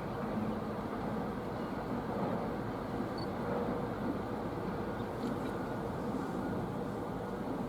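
Steady low rumbling background noise with no distinct events, of the kind heard from road traffic.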